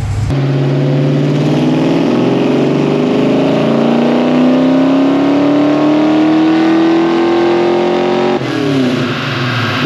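Port-injected Pontiac V8 muscle car at wide-open throttle on a chassis dyno, its pitch climbing steadily for about eight seconds with no gear change. Near the end the throttle closes and the revs fall away.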